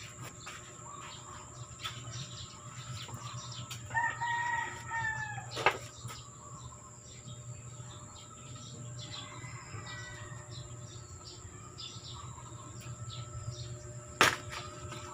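A bird calls once, about a second and a half long, about four seconds in, and more faintly again near ten seconds. Under it runs a steady low hum, with a couple of sharp knocks.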